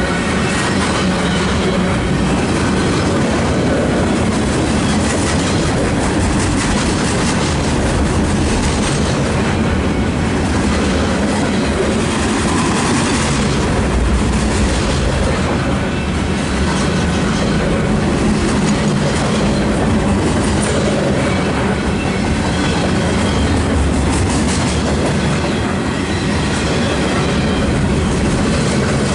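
Loaded flatcars of a Norfolk Southern freight train rolling past at close range: a steady, loud clatter and rumble of steel wheels on the rails.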